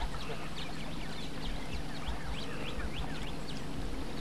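Birds chirping repeatedly in short, quick calls, over the steady low hum of the boat's motor.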